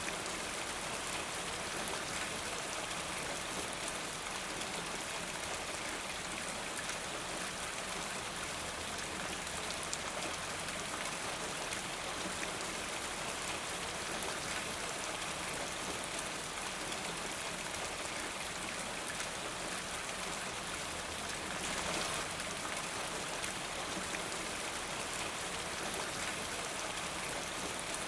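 Steady rain falling, with a fine patter of individual drops. It swells slightly and briefly about three quarters of the way through.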